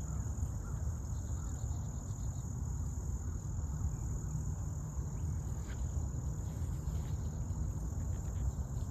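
Steady chorus of insects, a continuous high-pitched buzz, over a low rumbling noise.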